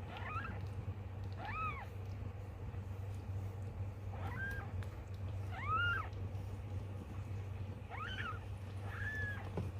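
A newborn kitten mewing, about six short, high-pitched cries, each rising and falling in pitch, a second or two apart. A steady low hum runs underneath.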